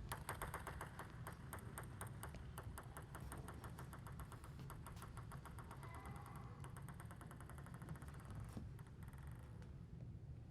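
Faint, rapid, even ticking of a table tennis ball bouncing, many light ticks a second, stopping about eight and a half seconds in.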